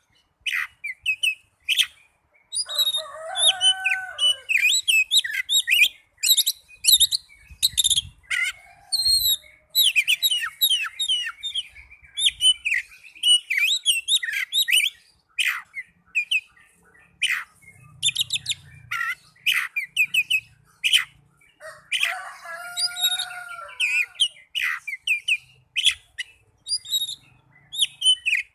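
Oriental magpie-robin (kacer) singing in fighting mood: rapid bursts of varied high chirps and whistles, with two lower-pitched phrases, one a few seconds in and one past the middle.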